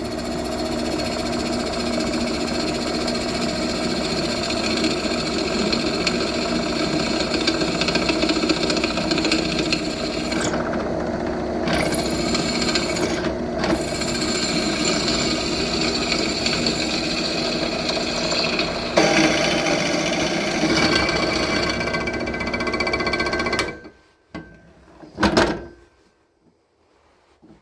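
Electric drill running steadily while it bores a hole through a small steel rose-petal piece. It shuts off abruptly near the end, followed by two short knocks.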